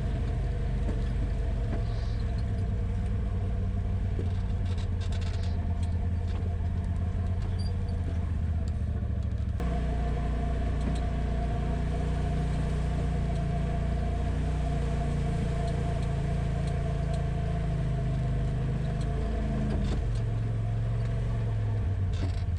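Polaris RZR side-by-side's engine running steadily as it drives along the trail, its note shifting to a new steady pitch about ten seconds in and again near the end.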